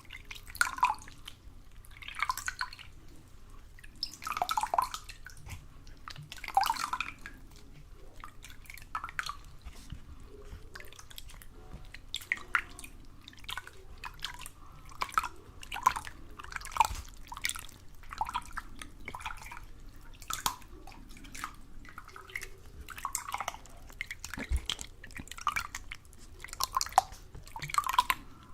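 Water dripping and plopping at an irregular pace, about one or two drops a second.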